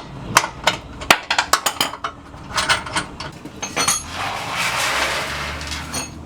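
Metal hand tools clinking and knocking on the rear suspension arm nuts and bolts of a car, a quick run of sharp metallic clicks, turning about four seconds in into a couple of seconds of harsher, denser noise.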